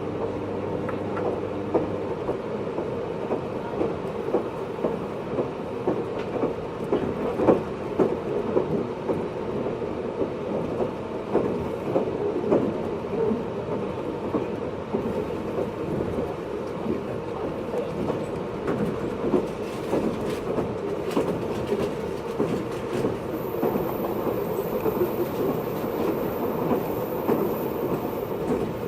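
Running noise inside a JR East 583 series sleeper EMU motor car (MoHaNe 582) travelling at speed: a steady rumble with frequent irregular clicks and knocks from the wheels on the track. A steady hum is heard at first and fades out about two seconds in.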